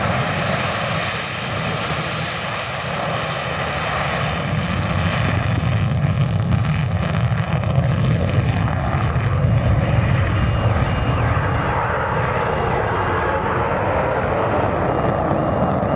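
Saab Viggen's single Volvo RM8 afterburning turbofan running loudly and steadily, a deep jet rumble with a hiss that thins out in the second half.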